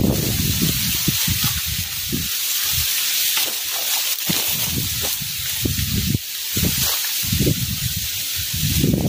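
Strong wind gusting against the microphone, with irregular low rumbling buffets over a steady high hiss of wind through leaves.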